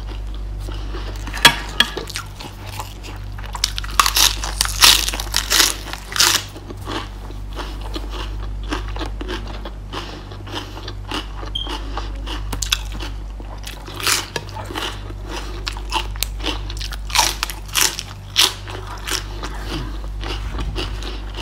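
A person chewing and crunching crisp raw vegetables, a run of crunchy bites in irregular bursts, the loudest about four to six seconds in. A low steady hum runs underneath.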